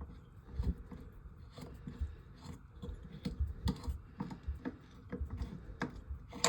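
Irregular light clicks and taps of tools and small metal parts as a toilet's water supply valve is taken apart to check its washer.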